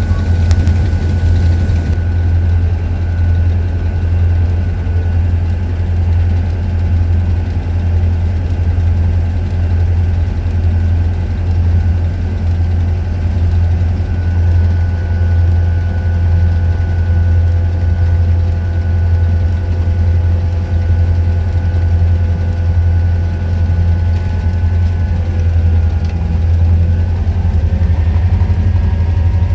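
Diesel engine of a series 661 EMD G16 locomotive idling steadily, with a strong deep hum. Its higher tones shift slightly near the end.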